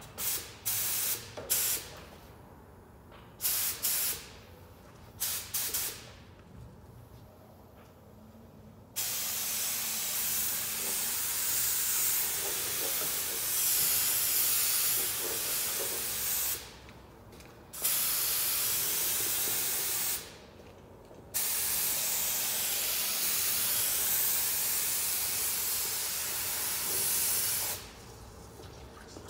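Compressed-air paint spray gun hissing. A few short blasts come in the first six seconds, then long continuous spray passes start about nine seconds in, broken by two brief pauses.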